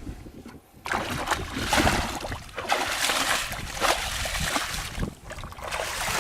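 Water splashing and sloshing in irregular bursts, starting about a second in.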